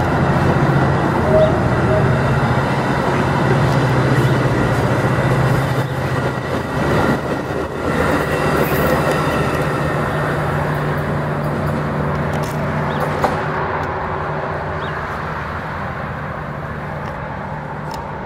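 Metra bilevel gallery commuter cars rolling past on the rails, a steady rumble with a low hum that fades gradually as the cab car at the rear moves away.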